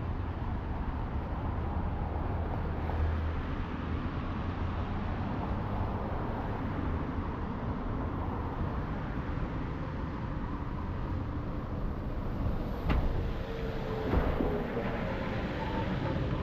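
City street traffic on wet roads: a steady low rumble of engines with tyre and rain hiss, and a sharp knock about thirteen seconds in.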